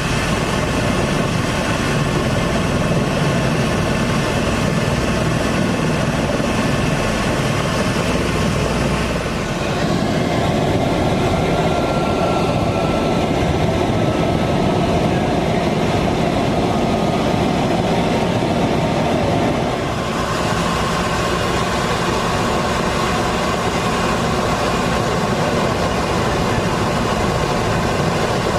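Helicopter engine and rotor noise heard from inside the cabin in flight: a loud, steady drone that changes character about ten seconds in and again about twenty seconds in.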